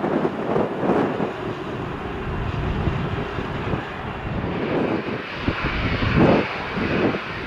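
Jet airliner engines, with a hiss that grows louder about halfway through, mixed with gusty wind buffeting the microphone.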